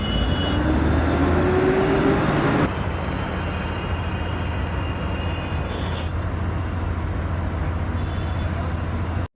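City bus engine running with a steady low drone, rising in pitch as it accelerates in the first couple of seconds. The overall sound changes abruptly twice, as between separately recorded shots of the ride.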